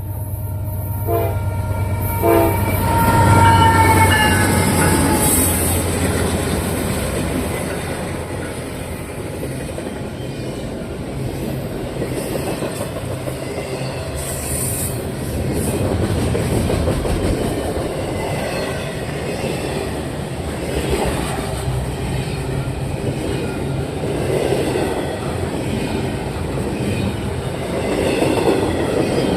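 Three-unit Norfolk Southern diesel locomotive consist passing close by, sounding its horn in the first few seconds with two short toots and then a longer blast, over the engines' low rumble. The intermodal cars then roll past with a steady rushing noise, wheels clacking over the rail joints and a faint squeal now and then.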